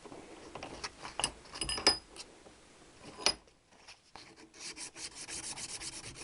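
Metal file worked by hand over a high spot on the end of a Triumph T120R kickstart part. A few scrapes and a sharp click come first, then a run of quick, even filing strokes near the end. The high spot is what made the kickstart stiff to take off.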